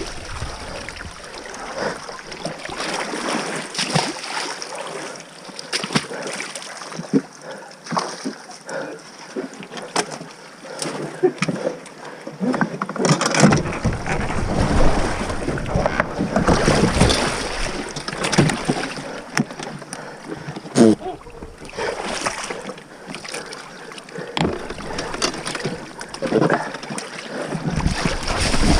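Irregular splashing and sloshing of river water around a small paddled boat: paddle strokes and the hull moving through the water.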